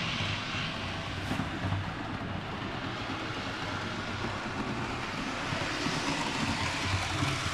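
Bachmann GP40 HO-scale model locomotive running steadily on the track, its small motor humming.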